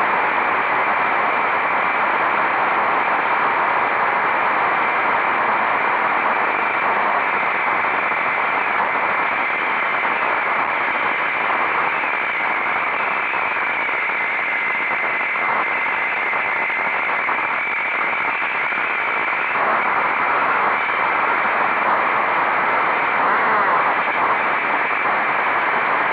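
Motorcycle riding at steady speed: a constant rush of wind over the microphone, with the engine and road noise running underneath it.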